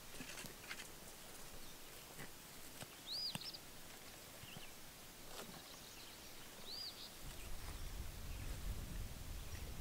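Quiet outdoor ambience with a songbird repeating a short, arched chirp twice, about three and a half seconds apart, over faint scattered ticks. A low rumble comes in about seven seconds in.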